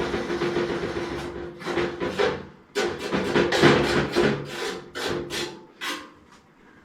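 Repeated scraping and rubbing strokes, irregular and about a fraction of a second each, over a faint steady hum.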